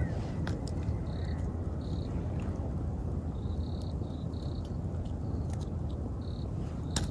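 Wood fire crackling, with a few sharp pops, the loudest near the end, over a steady low rumble. An autumn insect chirps in short high bursts at irregular intervals.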